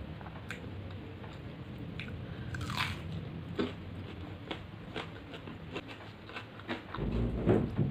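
Close-up chewing and biting of rice and fish curry: scattered wet mouth clicks and crunches, with a louder burst about seven seconds in.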